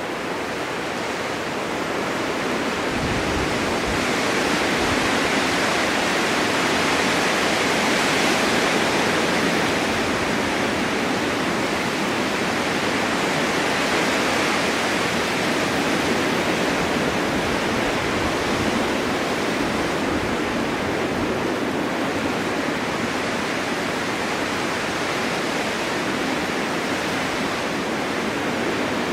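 Snowstorm wind ambience: a steady rush of wind noise that swells gradually over the first several seconds and then eases slightly, like gusting blizzard wind.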